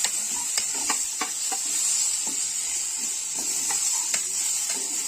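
Food sizzling in a kadai while a spatula stirs and scrapes it, with frequent sharp clicks of the spatula against the pan.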